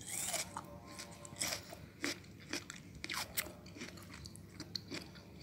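Close-up crunching of crisp, firm Korean oriental melon (chamoe) flesh being bitten and chewed, as a run of irregular short crunches.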